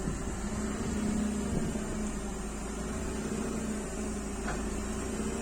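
Forklift running with a steady mechanical hum.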